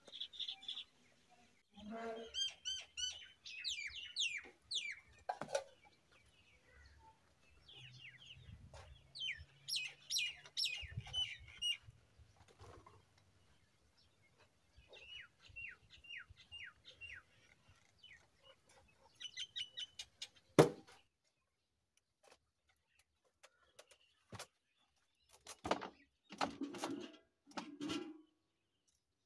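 Small birds chirping in quick repeated series, in several bouts, with a single sharp knock about two-thirds of the way through.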